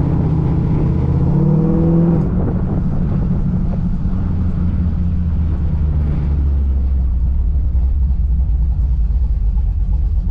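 Classic American car engine idling through a new custom exhaust with a deep, steady rumble. Its speed rises slightly about a second and a half in, then settles to a lower idle. The idle is rough enough to sound as if it might stall, with the mixture running a little rich.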